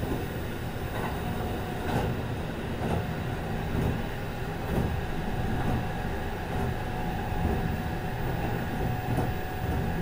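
Kintetsu 22000 series ACE limited express train running between stations, heard from the end deck of a car. A steady rumble of wheels and running gear, with a rail-joint click about once a second and a thin steady tone from a few seconds in.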